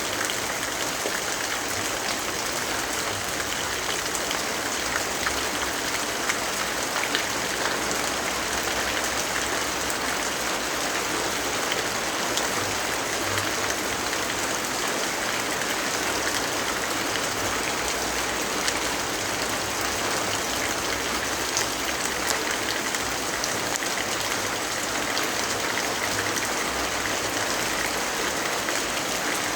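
Steady rainfall, an even hiss of rain with many small scattered drop ticks on top.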